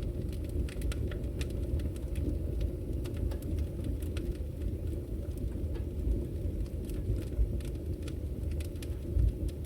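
Wood fire burning in a fireplace: a low steady rumble of the flames with frequent small, irregular crackles and pops.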